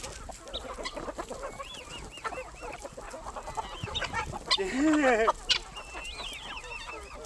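A flock of chickens clucking and calling over one another, with many short overlapping calls and high peeps. One louder, longer call stands out about four and a half seconds in.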